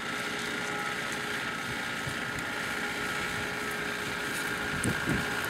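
Land Rover Defender's engine running at low revs as the 4x4 crawls slowly over rough ground, with wind on the microphone. Two short low thumps come near the end.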